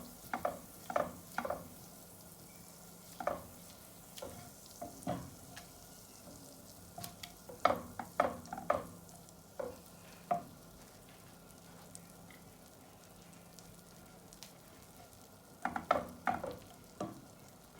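Butter melting in a frying pan over the flame with a faint sizzle, and a spoon scraping and stirring in the pan in several short bursts.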